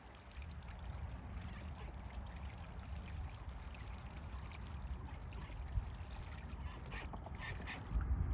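Water trickling and lightly splashing, with a few small clicks and splashes near the end, over a steady low rumble.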